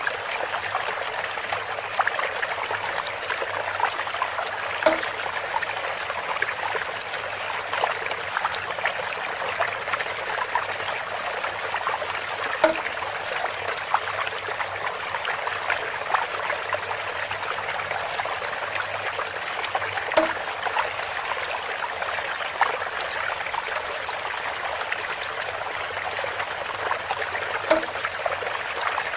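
Water trickling steadily through a bamboo spout, with many small splashes and a short pitched drop-like note about every seven and a half seconds.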